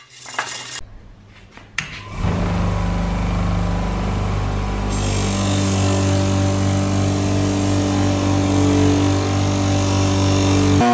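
An electric power tool's motor switches on about two seconds in and runs steadily with an even hum. From about five seconds in a higher hiss joins it.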